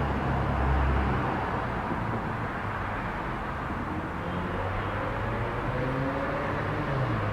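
Outdoor background noise with the steady low hum of a vehicle engine; the hum's pitch shifts near the end.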